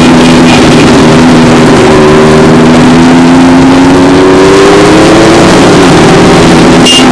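Motorcycle engine running loud and close, its pitch climbing slowly and then dropping back about five seconds in.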